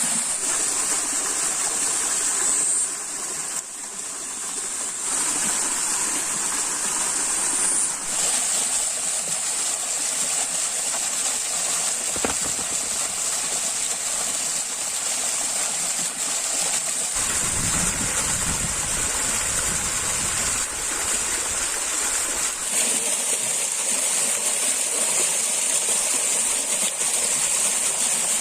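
Stream water flowing steadily, with a constant high-pitched buzz over it. A low rumble comes in for a few seconds past the middle.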